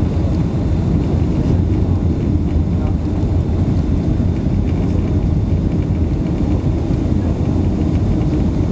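Boeing 757-200 cabin noise from a window seat: a steady, loud, low rumble of engines and airflow, with no distinct thumps or changes.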